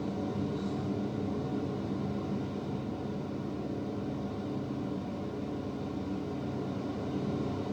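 Propeller aircraft engines droning steadily in a film soundtrack, heard through in-ceiling home-theater speakers in a small room.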